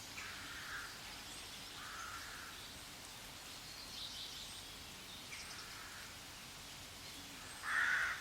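Faint background noise with a few short, scratchy bird calls; the loudest comes just before the end.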